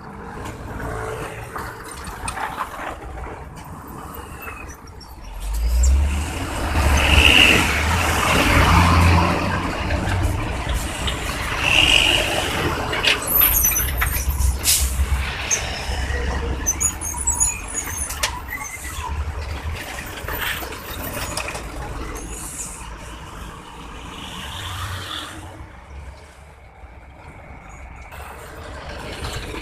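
Heavy trucks passing. A low engine rumble swells about six seconds in, two short high-pitched brake squeals come over it, and the rumble fades off in the second half.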